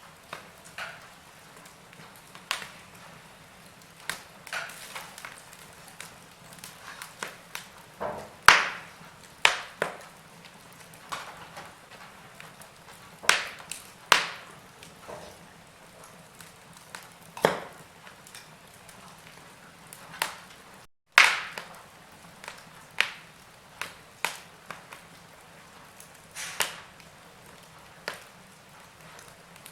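Wood fire in a fireplace crackling: irregular sharp pops and snaps, a few much louder than the rest, over a faint steady hiss. The sound cuts out for a split second about two-thirds of the way through.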